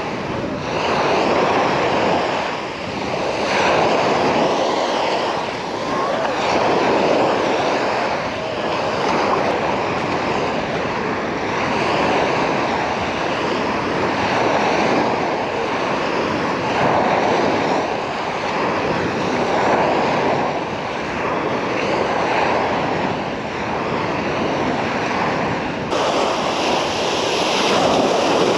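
Small sea waves washing onto the beach, swelling and falling back every few seconds, with some wind on the microphone.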